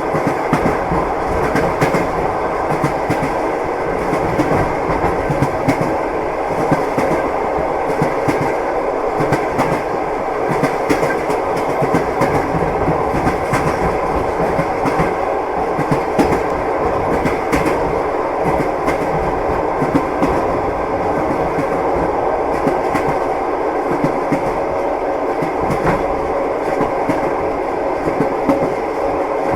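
Moving train: wheels knocking and clacking over the rail joints, with many scattered clicks over a steady rolling rumble.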